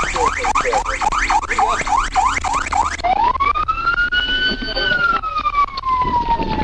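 Police siren in a fast yelp of about four rising sweeps a second, switching about three seconds in to a slow wail that rises and then falls away slowly.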